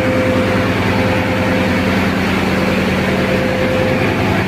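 Ship's diesel engine running steadily, with an even, fast low throb and a steady hum.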